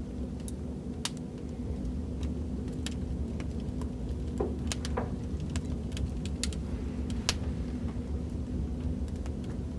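Fireplace crackling: a steady low rumble of burning logs with irregular sharp pops and crackles.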